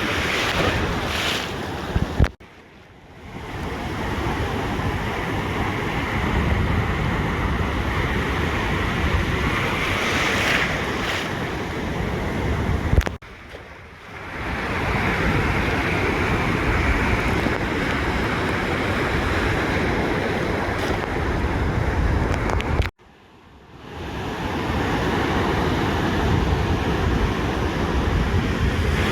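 Ocean surf washing on a beach, with wind buffeting the microphone. The sound drops out abruptly three times, about two, thirteen and twenty-three seconds in, each time fading back up within a second or so.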